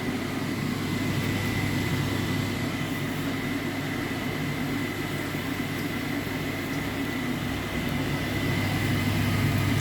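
Steady machine hum with a rushing noise and a faint high-pitched whine, growing slightly louder near the end.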